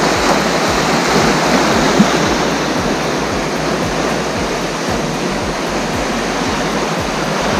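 Steady rushing wash of ocean surf breaking along a rocky shoreline.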